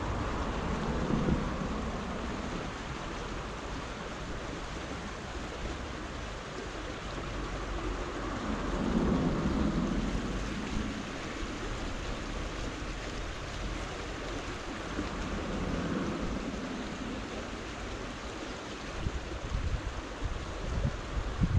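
Steady rush of a small stream's flowing water, with wind buffeting the microphone near the end.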